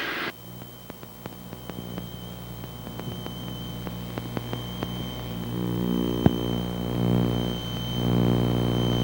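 Twin piston engines of a Piper Seneca droning in the climb: a steady hum of evenly stacked tones with faint static clicks, growing louder about halfway through and again near the end.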